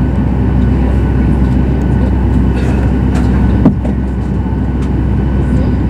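Cabin noise inside a Boeing 737 MAX 8: a steady low rumble of engines and airframe, with one short knock about three and a half seconds in.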